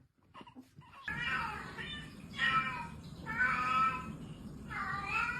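A cat meowing four times, about a second apart.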